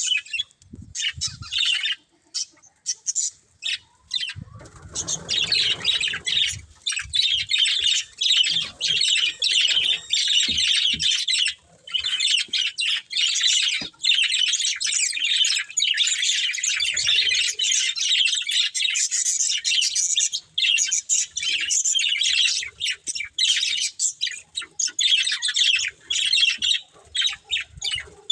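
A pair of budgerigars chirping and chattering almost without pause in rapid, high-pitched trills, with a brief low rustle about five seconds in.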